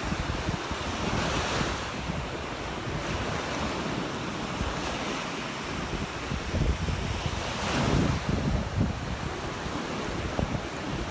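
Surf breaking and washing up the shore, with swells about a second and a half in and again near eight seconds. Wind buffets the microphone throughout.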